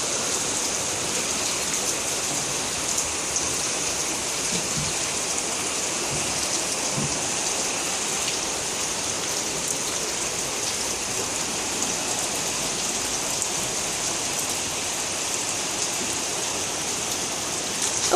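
Rain falling steadily, a dense even hiss with no letup.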